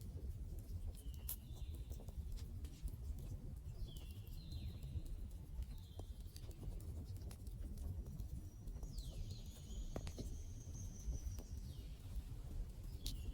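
Wood fire crackling, with sharp pops over a low rumble, and a run of short high-pitched whistling notes about once a second, plus one longer, higher whistle near the end.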